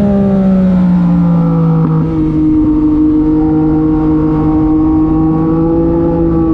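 Yamaha MT-09 SP's inline-three engine through an SC-Project aftermarket exhaust, riding along. The engine note falls over the first two seconds, there is a short click about two seconds in, and then the note holds nearly steady, rising slightly.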